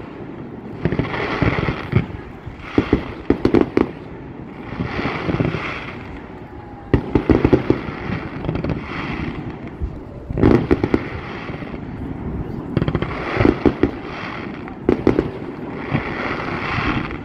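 Fireworks display: aerial shells bursting in clusters of sharp bangs every few seconds, with roughly second-long stretches of hissing, crackling noise between the bursts.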